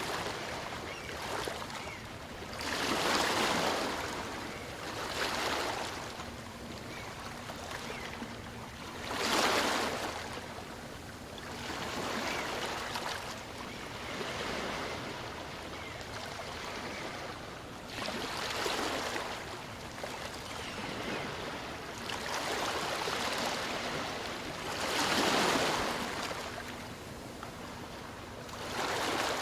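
Small waves on a calm sea breaking and washing up a sandy beach, the hiss of surf swelling and fading every three to six seconds.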